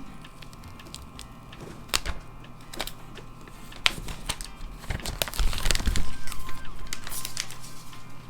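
Unboxing sounds from a smartphone box: scattered sharp clicks and taps, then about two seconds of rustling and tearing packaging near the middle to the end, with faint background music.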